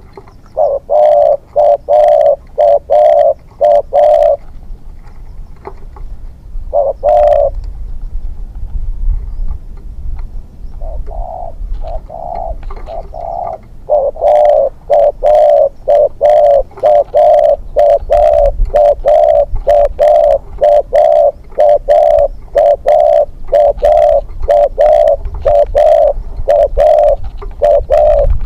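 Spotted dove cooing loudly and close, in runs of short repeated notes at about two a second: a short run at the start, a few scattered calls, then a long unbroken run through the second half. A low rumble runs underneath.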